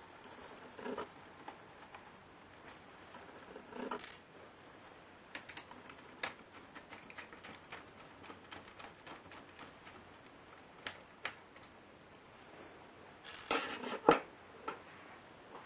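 Small clicks and taps from hands and tools working on a Lenovo Y570 laptop's screws and casing during disassembly. Near the end comes a louder short metallic clatter, as of a small metal part landing on the desk.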